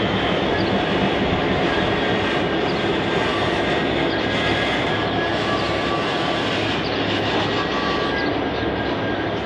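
Coal hopper wagons of a long freight train rolling past: a steady rumble and rattle of steel wheels on rail, with faint high squeals now and then.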